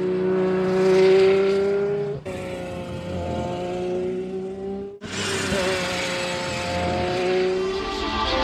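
Aston Martin Valkyrie's naturally aspirated V12 running at high revs with a high-pitched engine note. It comes in three spliced stretches, cutting off abruptly twice. The pitch climbs in the first stretch and eases slightly in the later ones.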